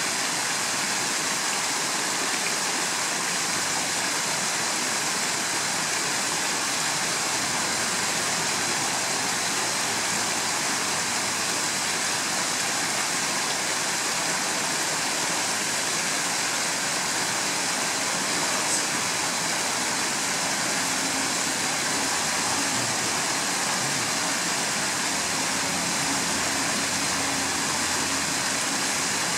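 Steady rushing of flowing stream water, an even wash of noise at a constant level, with a faint low hum joining in the second half.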